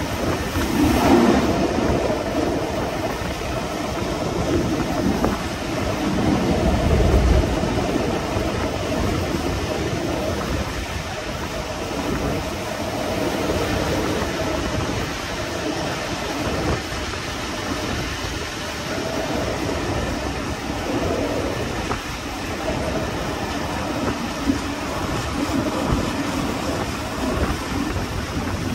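Passenger train hauled by an LMS Black 5 steam locomotive running along the line, heard from on board: a steady rumble of the carriages on the track, swelling briefly about a second in and again around six to seven seconds in.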